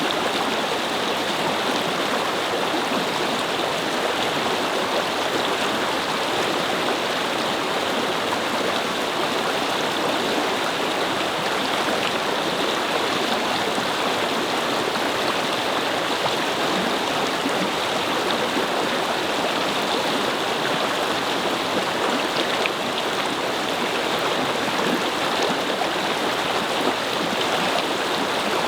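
Brook water flowing and babbling over stones, a steady even rush.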